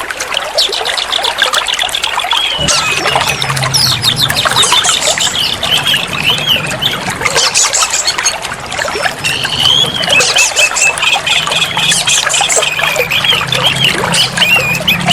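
Oriental magpie-robin (kacer) singing rapid warbling and chattering phrases over a steady trickle of running water. A low steady hum comes in about two and a half seconds in.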